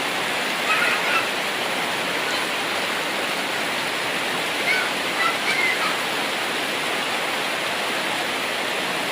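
Steady rushing hiss of a heavy downpour with running floodwater. Faint voices call out briefly about a second in and again around five seconds in.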